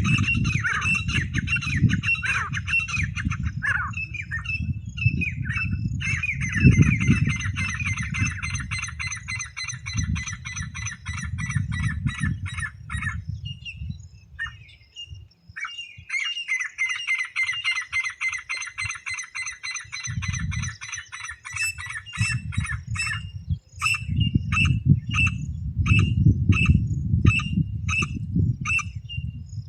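Teetar (francolin) calling: rapid runs of harsh, squawking notes, thinning out in the middle, then from about two-thirds in breaking into separate calls repeated about one and a half times a second. A low rumbling noise runs underneath.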